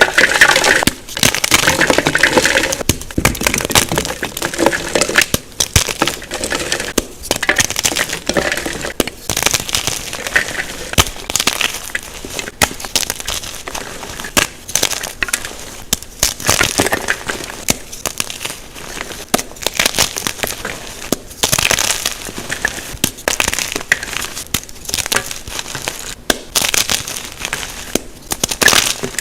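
Blocks of unpolished gym chalk (magnesium carbonate) crushed and crumbled by hand close to the microphone, a dense run of soft, powdery crunches and crackles with short pauses between squeezes.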